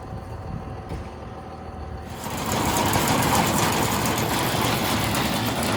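A motor vehicle's engine running, joined about two seconds in by a much louder, even hiss-like noise that holds steady.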